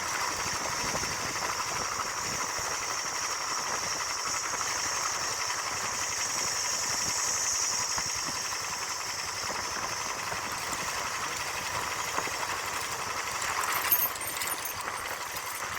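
Royal Enfield Bullet 350 ES single-cylinder four-stroke engine idling steadily through its original unmodified stock silencer, with fine, rapid exhaust pulses. A single sharp click or knock stands out about 14 seconds in.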